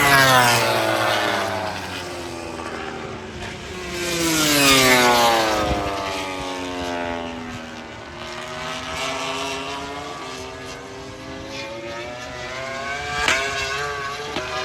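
MotoGP race bikes passing at speed, each engine note falling in pitch as it goes by, with the loudest pass about four to five seconds in. Later an engine note climbs as a bike accelerates away, and a sharp pop comes near the end.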